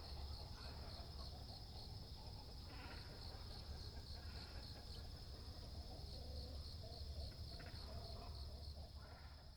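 Insect chirring steadily, a high trill pulsing evenly, with a couple of short rough waterbird calls behind it, a little under three seconds in and again near the end.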